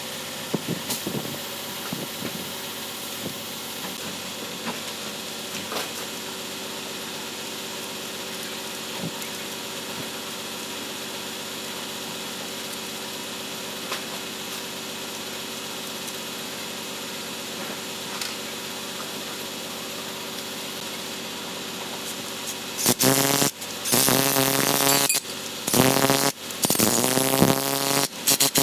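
A machine runs steadily, with scattered light tool clicks. Then, from about 23 seconds in, a power tool fires in a series of short, loud, pitched bursts.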